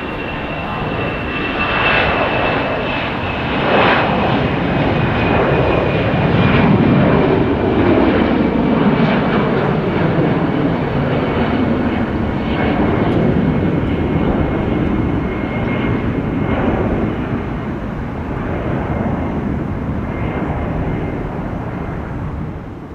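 Jet airliner engines passing, a sustained rushing roar with a thin high whine that slowly falls in pitch, fading near the end.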